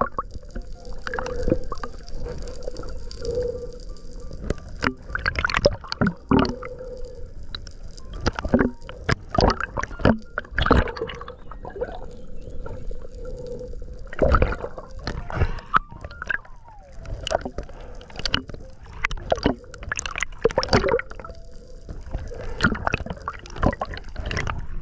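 Water gurgling and sloshing around a submerged camera, broken by many irregular sharp clicks and knocks.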